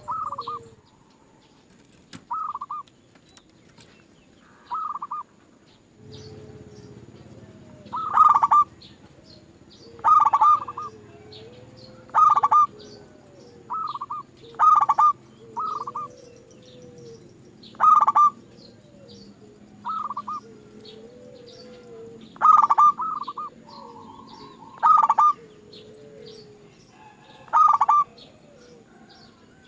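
Zebra doves (perkutut) cooing: short loud call notes about every one to two seconds, some in quick pairs, with softer gliding coos underneath.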